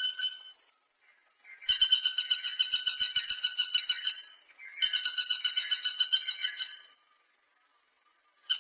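Woodpecker giving a rapid rattling call, a fast run of identical high, pitched notes, about ten a second. The runs last about two seconds each: one fading at the start, two more in the middle, and another beginning right at the end, with silent gaps between.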